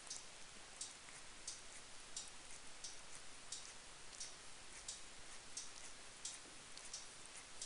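A cat grooming itself: faint, short wet clicks of licking, about one or two a second, over a low hiss.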